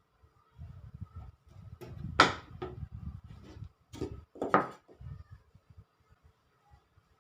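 Wooden pieces being handled and knocked against each other or a bench. There are two sharper knocks, about two seconds in and about four and a half seconds in, among lighter rubbing and taps.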